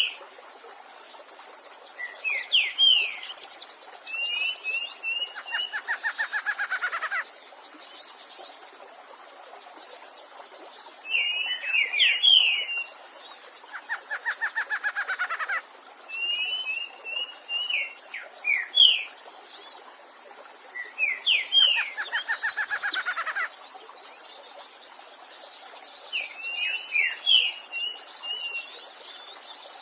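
A songbird singing the same phrase over and over, roughly every eight or nine seconds. Each phrase is a cluster of quick chirping notes ending in a fast run of rapidly repeated notes. A steady stream hiss runs underneath.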